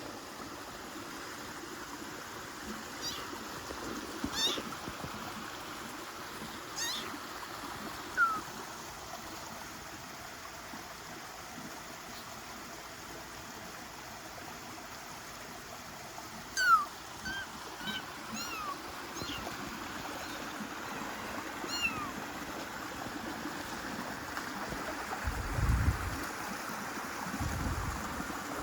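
Kittens mewing in short, high calls every few seconds, over a steady rushing background like a stream. Two dull low thumps come near the end.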